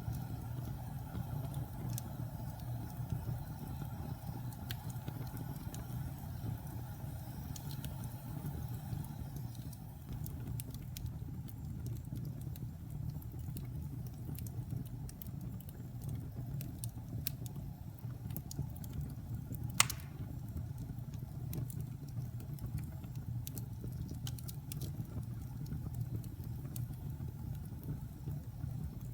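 Wood fire in a fireplace burning with a steady low rumble and scattered small crackles, with one sharp pop about twenty seconds in.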